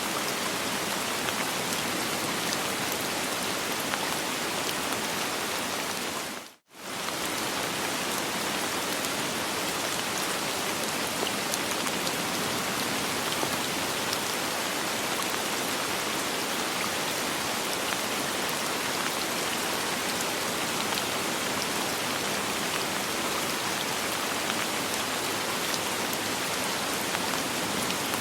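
Steady rain falling, with no thunder. The sound dips away to nothing for a split second about six and a half seconds in, then comes straight back.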